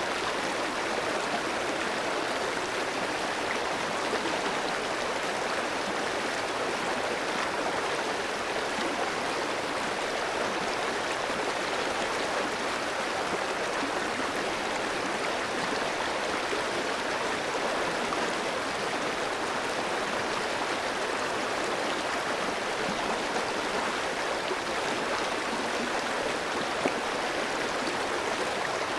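A clear stream running over rocks: a steady, even rush of flowing water with small splashes and gurgles.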